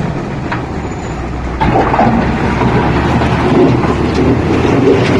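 Heavy diesel machinery running steadily, its engine noise rising noticeably about a second and a half in and staying louder.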